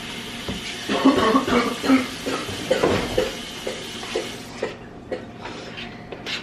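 Kitchen handling noises: dishes and utensils clinking and knocking over a steady hiss that cuts off about four and a half seconds in.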